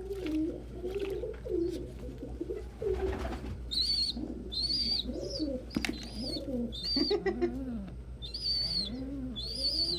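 Domestic pigeons cooing in low, arching calls, joined from about four seconds in by a squab's repeated high, thin squeaks.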